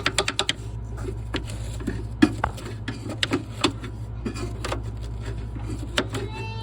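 Irregular sharp clicks and taps of hand-cleaning around a refrigerator's fan, quick at first and then sparser, over a steady low hum.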